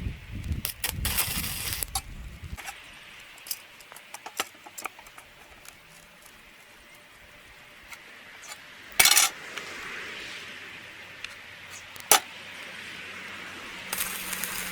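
Metal parts and tools being handled: scattered clinks and light knocks, with a louder short clatter about nine seconds in and a sharp clank about three seconds later.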